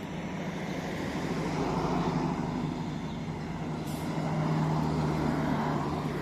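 A heavy vehicle's engine running steadily, growing louder about two seconds in and again near the end.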